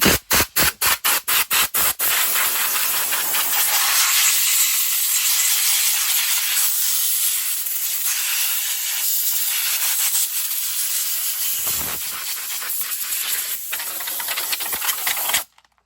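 Compressed-air blow gun blowing dust out of a chainsaw air filter. It comes in a quick series of short puffs, about four a second, then a long steady hiss that cuts off suddenly near the end.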